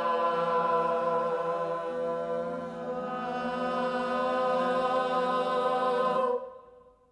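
Unaccompanied choir voices holding a sustained, improvised chord of many notes, with the lowest part shifting pitch about a second and a half in. The chord is released a little after six seconds and dies away.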